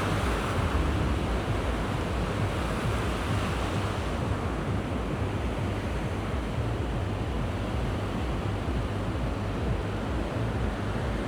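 Small sea waves washing onto a beach as a steady surf hiss, louder in the first few seconds and easing after about four seconds. Wind buffets the microphone with a low rumble underneath.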